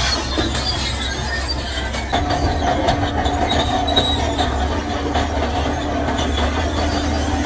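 Diesel engine of a crawler earthmover running with its steel tracks squealing and clanking. A steady engine note comes in about two seconds in and holds.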